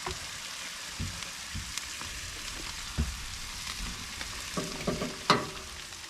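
Sausage sizzling on a Blackstone flat-top griddle, a steady frying hiss with scattered clicks and knocks, the loudest about five seconds in.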